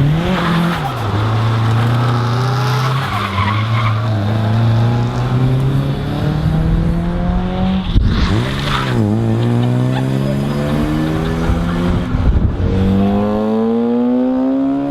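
A car engine revving hard, its pitch climbing steadily. It drops sharply about eight seconds in and climbs again, and again near the end. Tyres squeal and skid in the first few seconds.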